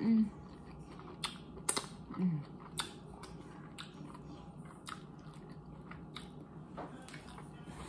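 Close-up eating sounds of Dungeness crab boil being chewed, with about eight sharp clicks and cracks scattered through, and a brief falling hum at the start and again about two seconds in.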